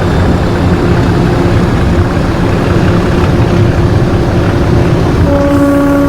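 English Electric 12CSVT V12 diesel engine of Class 37 locomotive D6700 running loudly and steadily, heard on board. About five seconds in, a horn starts sounding with one steady note.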